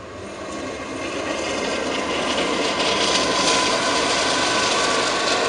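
Diesel freight locomotive approaching and passing close by. Its engine and rolling wheels grow louder over the first three seconds, then hold steady.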